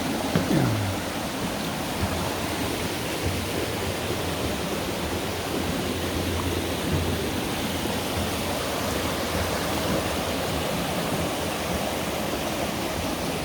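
Mountain valley stream running steadily, an even rush of water. A short falling tone sounds about half a second in.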